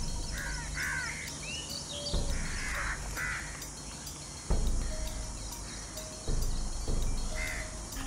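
Several short, harsh bird calls, crow-like caws, in the first three seconds or so and once more near the end, over a steady low rumble. Three dull low thumps come in the second half and are the loudest sounds.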